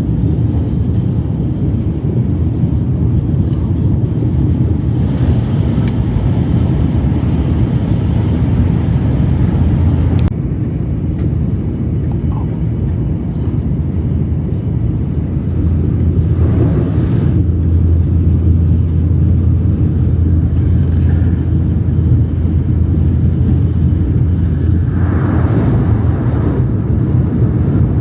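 Shinkansen bullet train running: a steady low rumble, with brief rushes of higher noise about five, seventeen and twenty-five seconds in.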